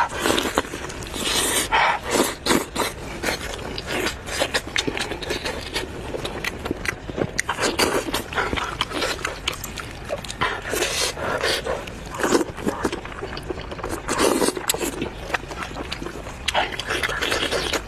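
Close-miked eating of lamb tripe: chewing, wet smacking and slurping, with many short mouth clicks and breathy bursts coming irregularly.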